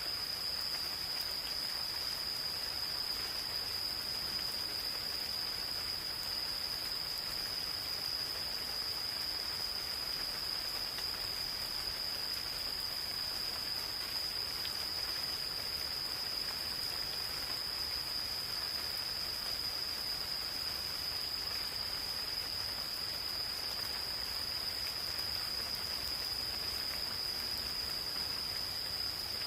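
Gentle rain falling in a forest, with an insect trilling steadily on one high, unchanging pitch over it.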